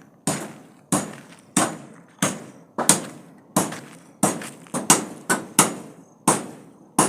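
Hammering: a steady run of sharp hammer blows, about one and a half a second, each with a short ring.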